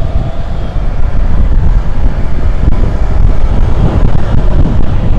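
Motorcycle being ridden through street traffic: engine running under a heavy, steady rumble of wind on the microphone.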